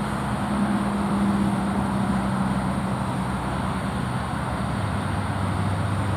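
Motor vehicle engine running with a steady low hum over road noise; the hum drops to a lower pitch near the end.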